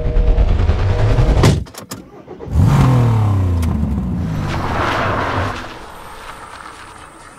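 Car engine revving, broken off suddenly about a second and a half in by a few sharp clicks. It then revs up again as the car pulls away, and the sound fades over the last couple of seconds.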